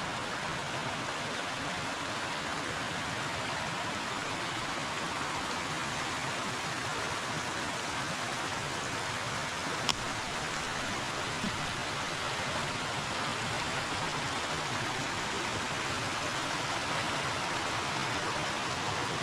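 River water flowing steadily, a constant rushing with no change in level. One short sharp click stands out about halfway through.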